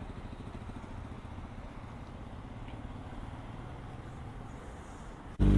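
Motorcycle engine idling with a steady low rumble, then suddenly much louder near the end.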